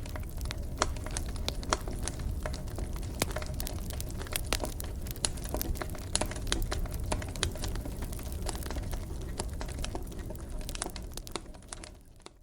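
Fire crackling in a fireplace: frequent sharp pops and snaps over a low rumble, fading out near the end.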